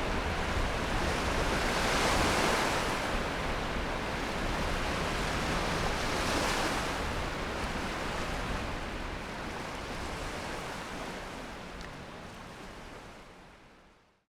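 Steady outdoor rushing noise, swelling twice, about 2 and 6 seconds in, then fading out at the end.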